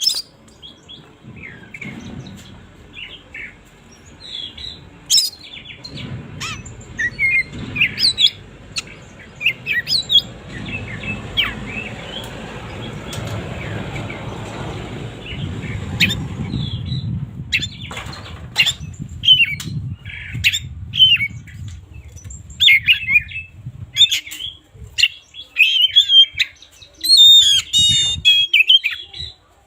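Oriental magpie-robin (kacer) singing: a quick run of sharp chirps and varied whistled notes, busier in the second half. A low rumble sits under the song for several seconds in the middle.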